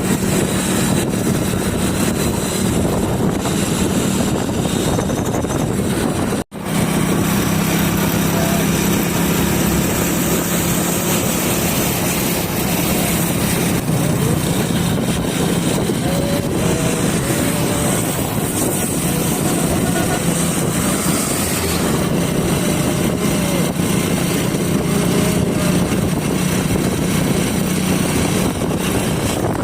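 Motorcycle engine running steadily while riding, with a constant low drone and heavy rushing wind noise. The sound cuts out completely for a moment about six and a half seconds in.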